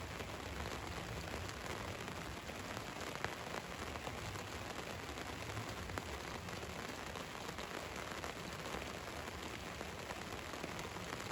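Steady rain falling on a van: an even hiss with many small drop taps, holding the same strength throughout.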